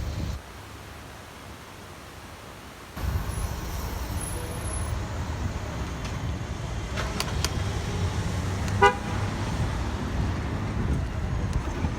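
Wind buffeting the microphone as a low rumble, which eases for a couple of seconds just after the start and then comes back. About nine seconds in there is a single short horn toot.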